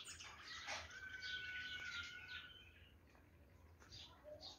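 Several songbirds chirping and calling over one another in quick, overlapping notes, with one held whistle for over a second early on; the calls thin out past the middle.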